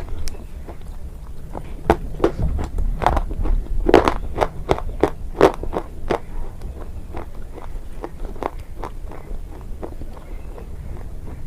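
Close-up biting and chewing of a hard, brittle, earthy item such as slate pencil, chalk or fired clay: a run of irregular crunches, loudest and most frequent in the first half.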